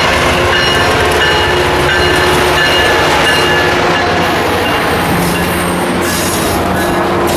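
A train passing close by: a loud, steady rumble of wheels on the rails, with thin, high, steady squealing tones from the wheels.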